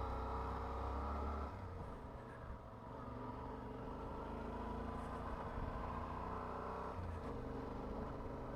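Motorcycle engine running under way as the bike climbs a road, heard from the rider's position. The engine note drops back about a second and a half in and picks up again about seven seconds in.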